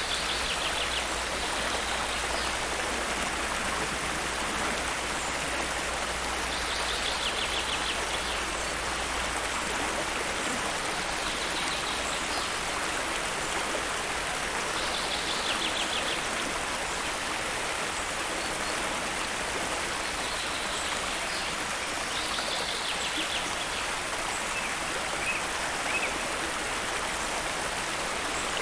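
Steady rush of flowing water, like a stream. Over it a bird gives a short, fast, high trill every few seconds.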